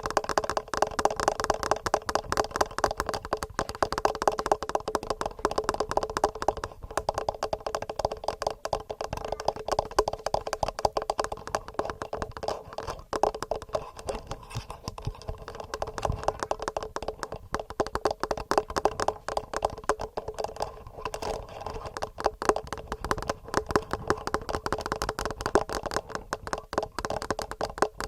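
Fingernails tapping fast and continuously on a TASCAM portable recorder's built-in microphones: a dense, unbroken run of clicks.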